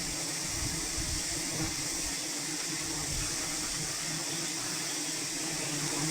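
Steady buzzing of a swarm of bees around an opened wild hive, a low even hum under a constant high hiss.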